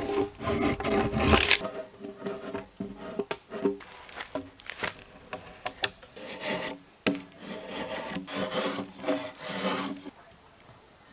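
Hand tool working wood with repeated rubbing, rasping strokes. The strokes come in spells and stop about ten seconds in.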